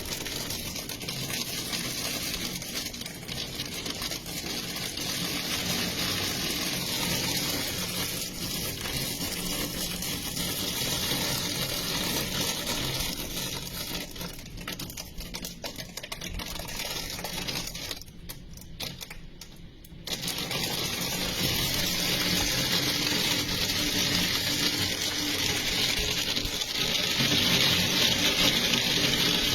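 Heavy rain pouring down in a steady rush. It thins out briefly about two-thirds of the way through, then comes back louder.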